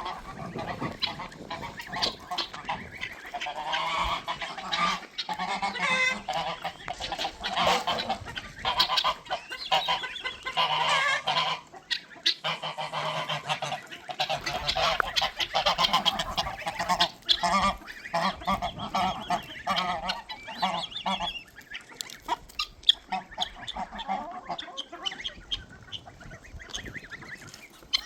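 Farm fowl calling over and over, many short calls overlapping, thinning out about three-quarters of the way through.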